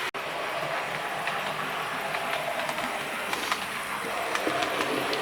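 Model train running around its track: a steady motor and wheel hum with faint scattered clicks from the rails.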